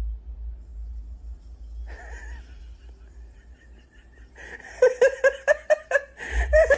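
A person laughing hard in a fast run of short bursts in the second half, over a low rumble of handling or wind noise on the microphone.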